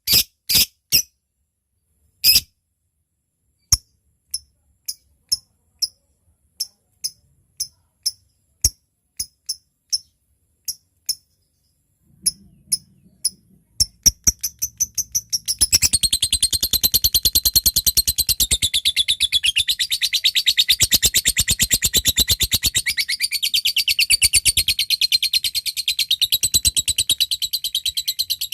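Lovebird calling: single sharp high chips spaced out at intervals, then about fifteen seconds in it breaks into a long, rapid, unbroken chattering trill, the 'ngekek panjang' that keepers prize in a singing lovebird.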